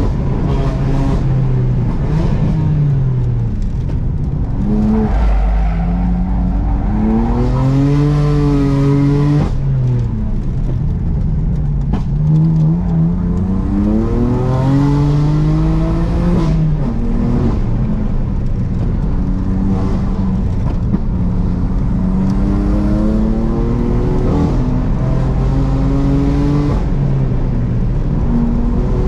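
BMW M3 F80's twin-turbo straight-six engine at full effort, heard from inside the cabin. Its pitch climbs hard under acceleration, then drops back sharply again and again through gear changes and lifts for corners.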